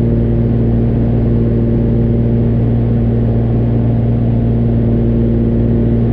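Cessna 414A's twin piston engines and propellers droning steadily in the cabin, in cruise power on approach.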